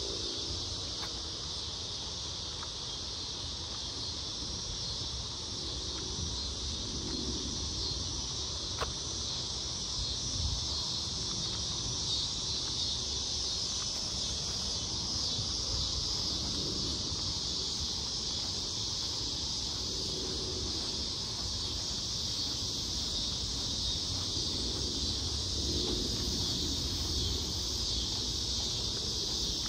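Steady, high-pitched insect chorus, unbroken throughout, with a low rumble beneath it.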